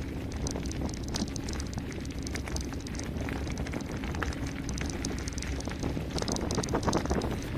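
Mountain bike descending a gravel forest road at speed: a steady rumble of tyres over gravel with wind buffeting the microphone, and the bike rattling and clicking over rough spots, busier near the end.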